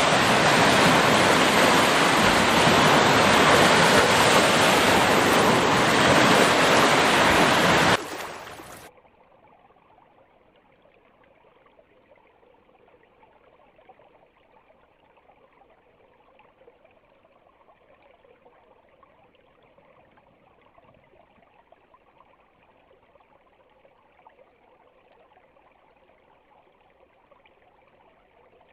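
Loud, steady rushing of running water from a stream that cuts off suddenly about eight seconds in, leaving only a faint trickle.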